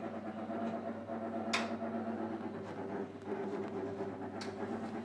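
AEG Lavamat 804 washing machine running its wash cycle: a steady mechanical hum with a couple of sharp ticks, about one and a half and four and a half seconds in.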